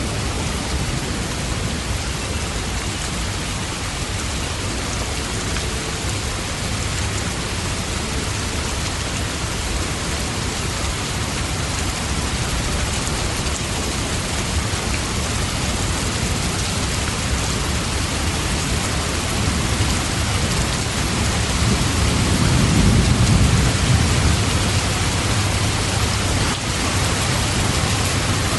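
Steady rain falling. A low rumble of thunder swells and fades about three-quarters of the way through.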